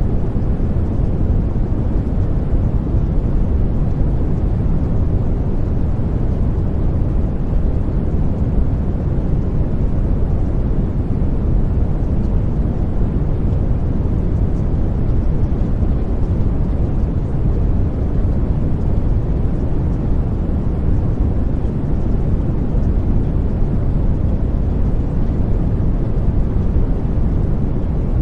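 Steady, even low rumbling noise with no breaks or changes: the background noise bed of a subliminal audio track.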